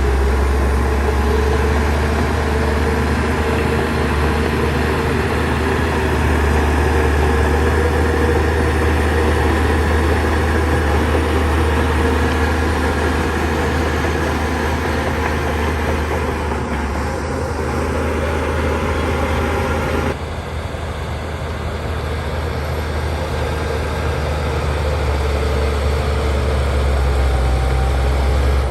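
Heavy diesel engine of a Shantui DH17 C2 crawler bulldozer running steadily with a deep hum. The sound changes abruptly about twenty seconds in.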